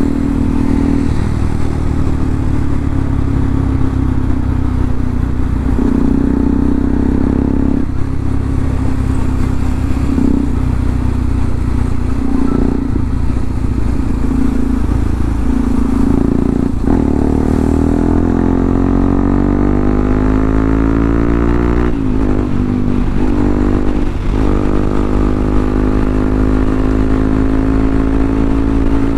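Bajaj Pulsar NS200's single-cylinder engine running hard on the move, rising in pitch in long sweeps as it accelerates, with several brief drops between them.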